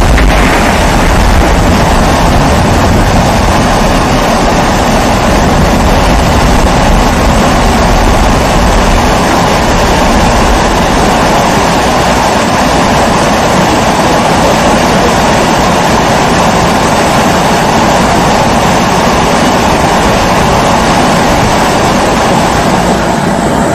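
Pressurized kerosene stove (primus-type burner) burning with a loud, steady rushing noise.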